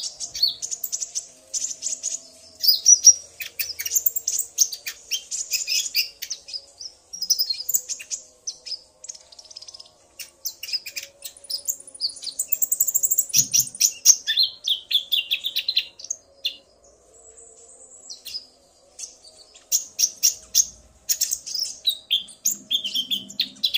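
Konin (kolibri ninja) sunbirds chirping and trilling rapidly and high-pitched, male and female calling back and forth, with a pause of a few seconds past the middle. A faint steady hum lies underneath.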